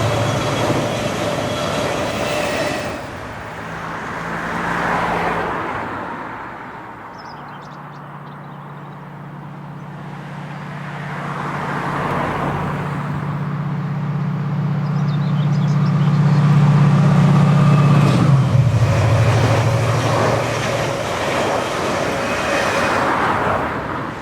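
Diesel locomotive hauling a rake of coaches, its engine note growing louder as it approaches and dropping in pitch as it passes about 18 seconds in, with wheels rolling on the rails.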